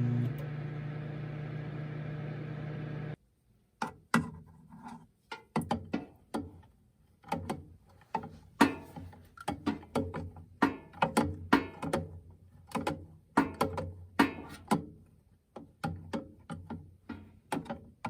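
A microwave oven humming steadily, cutting off abruptly about three seconds in. Then light background music of short plucked notes.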